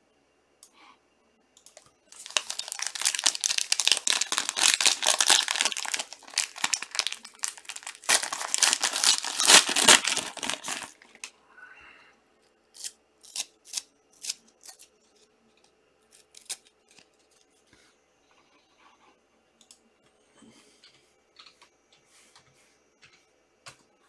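Wrapper of a 2018 Panini Prizm World Cup trading-card pack being torn open and crinkled for several seconds, with a brief pause midway, then a few sharp clicks and taps as the cards are handled.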